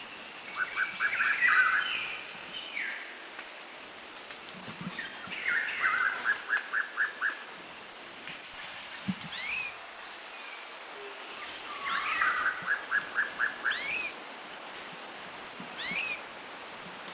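Birds singing: phrases of quick repeated notes, about six to eight in a row, three times, and several sharp upward-sweeping whistles, over a steady background hiss.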